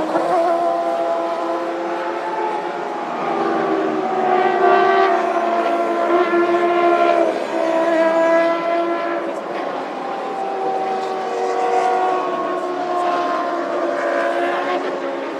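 1998 Formula One cars' V10 engines running at high revs, several engine notes overlapping and rising and falling in pitch.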